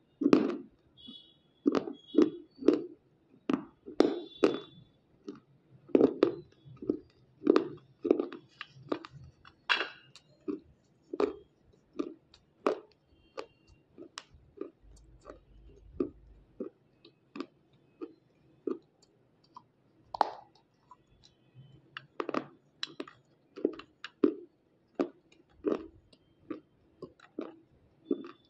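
Close-up chewing and crunching of white unshaped slate pencil pieces in the mouth, a steady run of bites about two a second with a few louder crunches.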